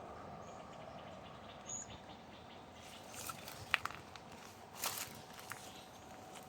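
Quiet evening garden ambience with a faint steady insect hum. From about three seconds in, a few soft crunching footsteps and sharp clicks, as of walking over dry leaves.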